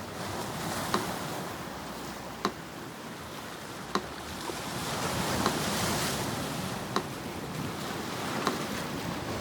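Sea surf washing steadily, with a wave swelling about halfway through, under a metronome ticking slowly and evenly, one sharp tick every second and a half.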